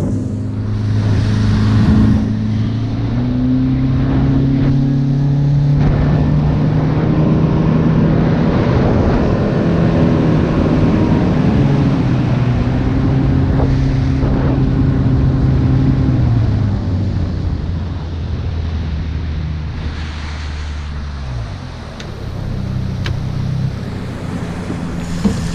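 Outboard motor on a small boat running under way, with water and wind noise. About two-thirds of the way through the engine throttles back and its note drops to a lower, slower run.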